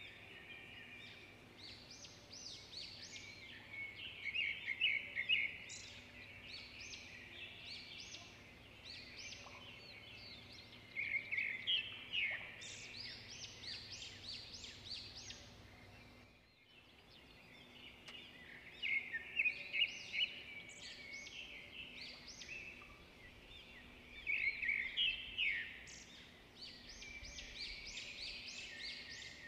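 Small songbirds chirping and trilling in quick runs of sharp, high notes that come in bursts every few seconds, over a faint steady background.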